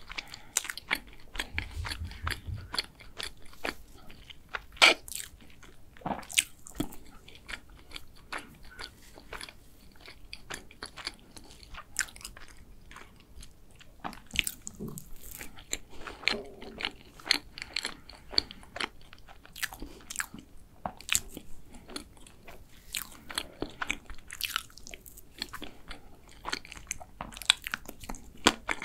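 Close-miked chewing and mouth sounds of a person eating soft tiramisu roll cake from a spoon: irregular wet clicks and smacks.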